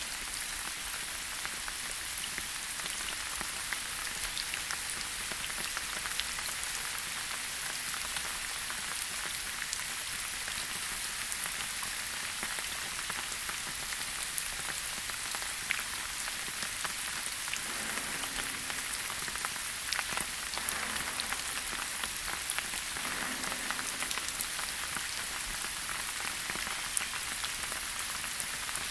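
Steady rain falling in a forest: an even hiss studded with many separate drop hits.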